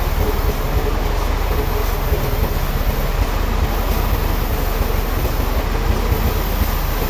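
Sawmill machinery running: a steady, loud mechanical noise with a heavy low rumble and a faint steady hum.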